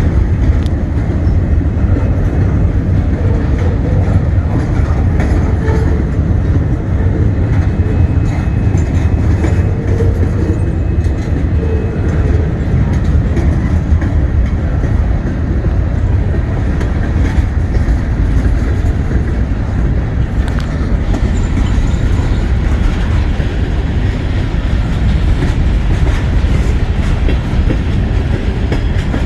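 Freight train cars rolling past close by: a loud, steady rumble with the clatter of steel wheels over the rail joints.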